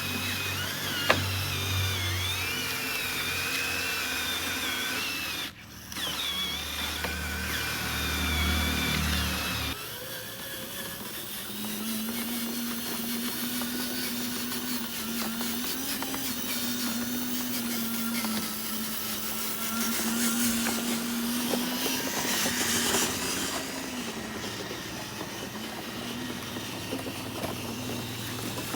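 Small electric motors of radio-controlled construction models whining, their pitch wandering as they work. The sound changes abruptly twice in the first ten seconds, then settles into a lower hum that rises and falls in pitch.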